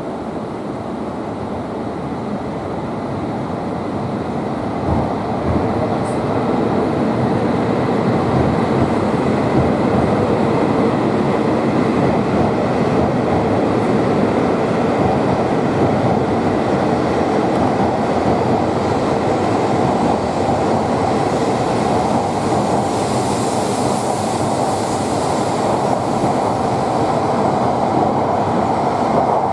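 Tohoku Shinkansen train pulling out of the station. Its running noise builds over the first several seconds and then holds steady as the cars slide past.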